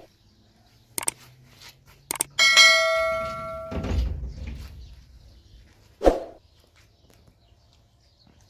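A couple of sharp knocks, then a metal clang that rings for about a second before fading, followed by a low thump; another short sharp sound comes about six seconds in.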